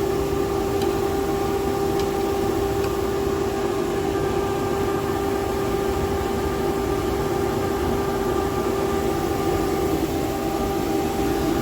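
Boiler burner running steadily while its combustion is being set up, a constant drone with a steady hum, as the O2 reading is adjusted.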